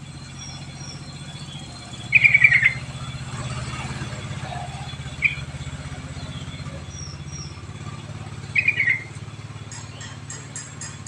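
Yellow-vented bulbul (trucuk) calls: short bubbly phrases about two, five and nine seconds in, over a steady low hum. A quick run of high ticks comes near the end.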